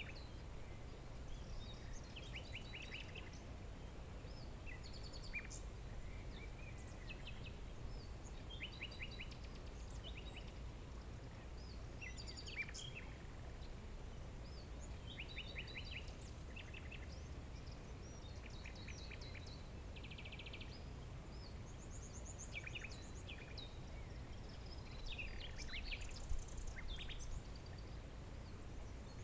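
Several songbirds calling and singing at once in short chirps, quick trills and rapid note series, over a steady low rumble.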